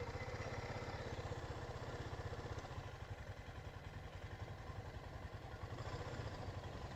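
Four-wheeler (ATV) engine idling steadily and faintly, a low, rapid, even putter.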